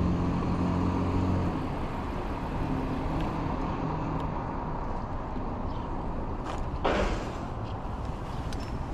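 Urban road traffic heard from a bicycle: a nearby vehicle's low hum fades after about a second and a half over steady road and wind noise. A short hiss comes about seven seconds in.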